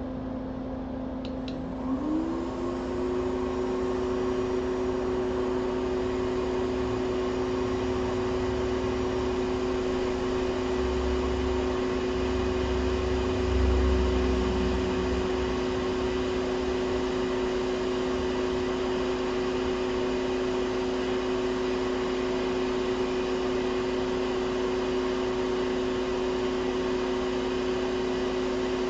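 Hot air rework station blowing to desolder a chip from a phone logic board: its fan whine rises in pitch about two seconds in and then holds steady, over a constant hum from the bench equipment. A brief low rumble comes and goes about twelve to fifteen seconds in.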